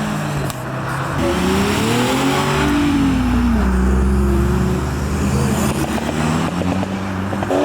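Modified car engines running as cars pull away, one revving up, its pitch peaking a few seconds in and then dropping as it changes gear or eases off, over the steady drone of other engines.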